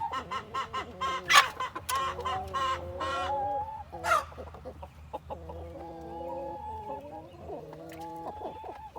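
Chickens clucking and squawking in quick repeated calls, with two sharp, loud squawks about one and four seconds in, then longer drawn-out calls through the second half.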